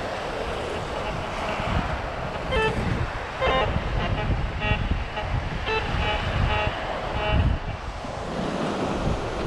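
Metal detector sounding several short target beeps over steady wind noise on the microphone.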